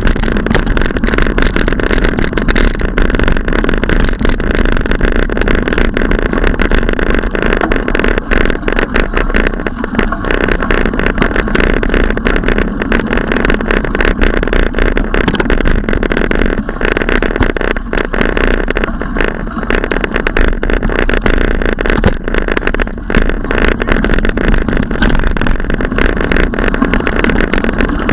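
Loud, steady rushing noise with constant buffeting from wind hitting the microphone of a camera on a moving bicycle, mixed with road noise.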